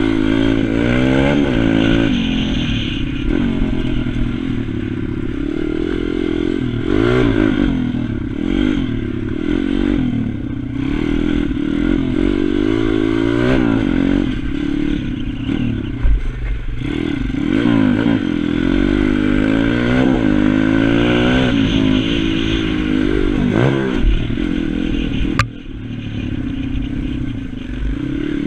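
Pit bike engine on a track, repeatedly revving up and dropping back as the throttle is opened and closed through gear changes and corners. A single sharp click comes near the end, with a brief dip in engine sound.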